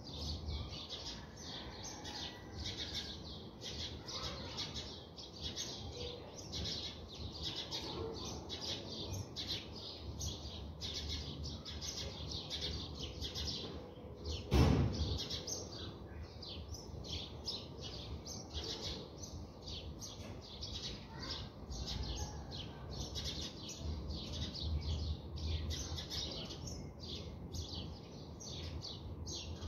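A dense, steady chorus of small birds chirping, quick high notes following one another without a break. About halfway through comes a single brief, louder sound that falls quickly in pitch.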